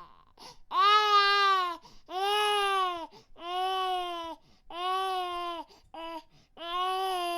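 Baby crying in a run of wails, about one a second, each rising and then falling in pitch, with one short cry near the end.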